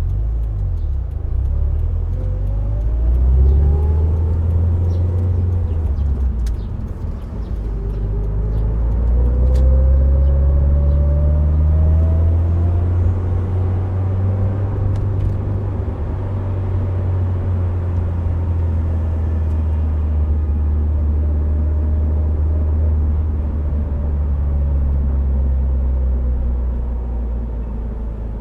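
Subaru Impreza WRX STI Spec C's turbocharged flat-four engine, breathing through an aftermarket A-RM exhaust, pulling through two accelerations with the pitch rising each time, near the start and again about a third of the way in. It then settles into a steady cruise under a constant hiss of tyres and road.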